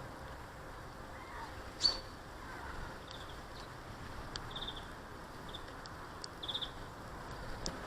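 Small garden birds giving short, high chirps every second or so, with a sharp tap about two seconds in and a couple of fainter ticks, over a steady outdoor hiss.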